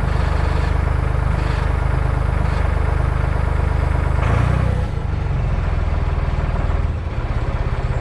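Forklift engine running steadily, its revs changing about halfway through as the machine is worked.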